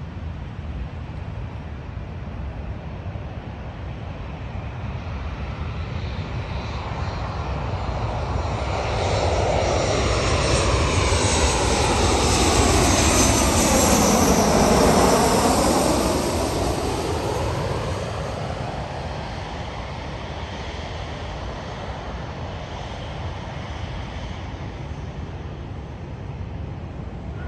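Southwest Boeing 737-700 jet with CFM56 turbofan engines passing overhead. The engine noise builds to a peak about halfway through, with a sweeping whoosh that falls then rises as the plane goes by, then fades away.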